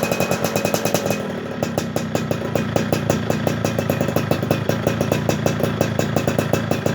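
Motorcycle engine idling with a fast, even beat of firing pulses; its tone shifts slightly about a second in, then runs on steadily. The bike is running after sitting unused for a month.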